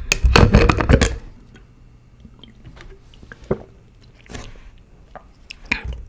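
Close-miked wet chewing and mouth sounds from eating honeycomb: a dense run of sticky clicks and squishes in the first second, then scattered soft smacks and clicks.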